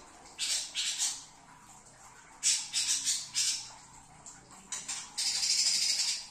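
Green leafbird (cucak ijo) giving harsh, rasping calls in short bursts, with one longer rasping call lasting about a second near the end.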